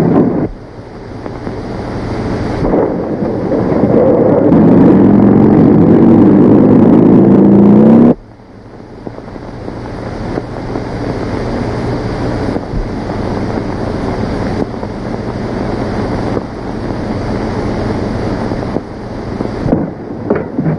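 Open touring car's engine running and accelerating away, its pitch climbing steadily, cut off abruptly about eight seconds in. A steady rushing noise follows.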